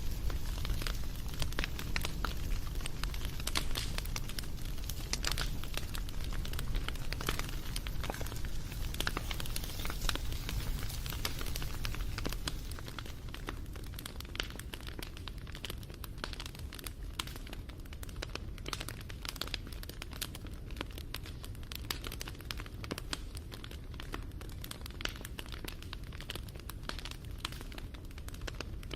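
Wood fire crackling, with dense, irregular pops and snaps over a low rumble. It gets a little quieter about halfway through.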